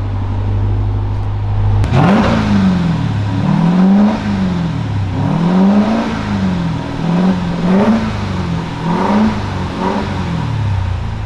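2023 Dodge Durango SRT Hellcat's supercharged 6.2-litre V8 idling, then revved from about two seconds in: about five revs, each rising and falling in pitch. It is heard through the stock exhaust with its mufflers still in place.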